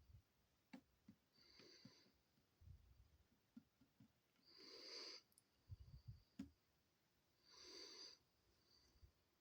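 Faint, slow breathing close to the microphone, three soft breaths about three seconds apart, with a few light handling knocks between them.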